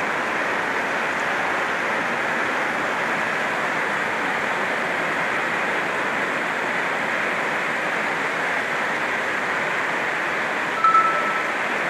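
Heavy rain drumming steadily on a tin roof. A short, high steady tone sounds once near the end.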